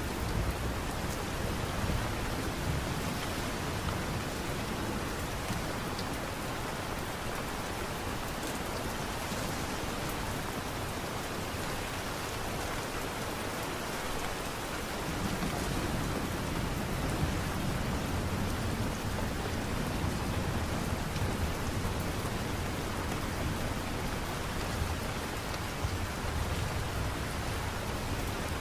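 Steady light rain falling, an even hiss, with a low rumble swelling up about halfway through.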